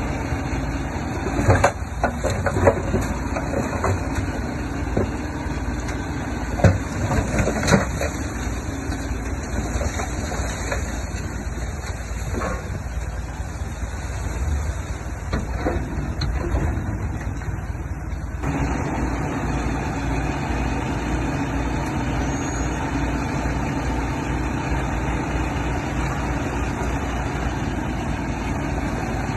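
Diesel engines of heavy earthmoving machinery running steadily, with sharp knocks and clanks during the first several seconds. The engine sound changes abruptly about two-thirds of the way through.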